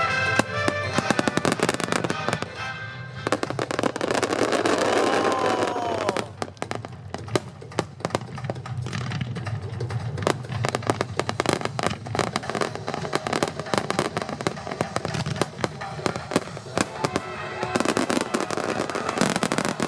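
Aerial fireworks bursting and crackling in a dense run of sharp pops. A louder rushing hiss with a whistle-like sweep comes about three to six seconds in. Music plays underneath.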